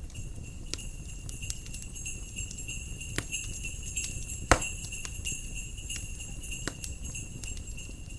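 Jingle bells ringing steadily over a crackling wood fire, with scattered sharp pops and one loud pop about halfway through, and a low rumble of fire and wind underneath.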